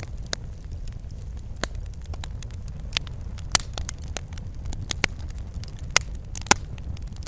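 Fireplace fire crackling: irregular sharp pops and snaps over a steady low rumble, with a few louder pops, the loudest near the end.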